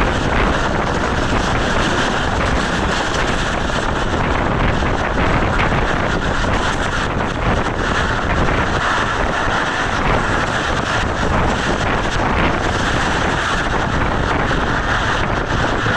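Steady rush of a passenger train running through a station at speed, heard from an open door or window on board: wind buffeting the microphone over the rumble of the coaches.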